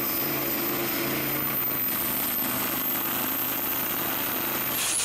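Diesel pickup truck engine running steadily with a thin, very high whistle over it; near the end the whistle breaks off and falls in pitch.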